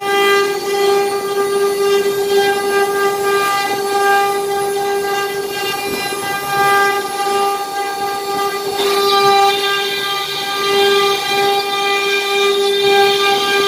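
CNC router spindle running at a steady high whine while it cuts a partition panel, with a hissier cutting noise joining in about nine seconds in.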